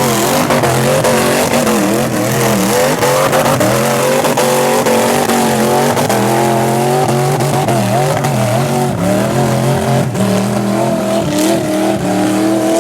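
GM 502 Ramjet big-block V8 in a rock-bouncer buggy held at high revs on its rev limiter, the pitch holding steady with small dips and a fast crackle running through it as the limiter cuts in.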